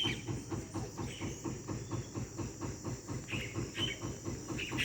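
Short high bird calls a few times in the second half, over a steady rapid pulsing throb of about six beats a second and a constant high whine.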